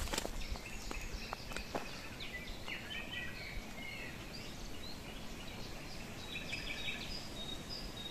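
Small birds chirping in many short, high calls, over a steady low background noise; a few sharp clicks sound in the first two seconds.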